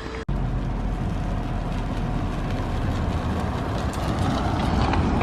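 A vehicle engine running steadily, heavy in the low end, starting abruptly a moment in.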